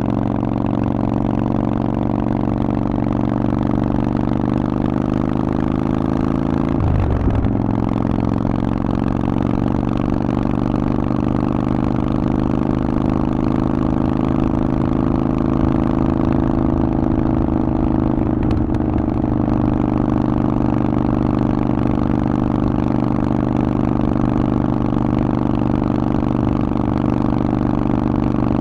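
Harley-Davidson Forty-Eight's air-cooled 1200 cc V-twin running through a Vance & Hines aftermarket exhaust while riding. The note climbs slowly, dips sharply and picks up again about a quarter of the way in, and breaks once more about two thirds through.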